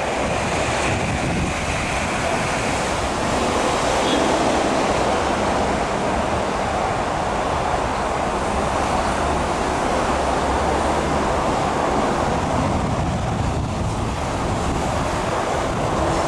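Passenger coaches of a through train rolling over the rails without stopping: a steady rushing rumble of wheels on track.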